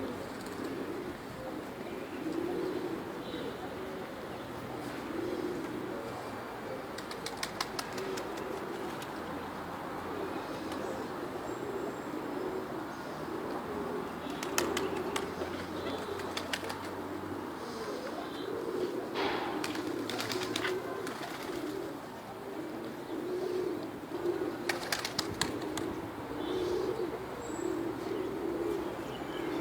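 A flock of domestic pigeons cooing continuously, with several short bursts of wing flapping.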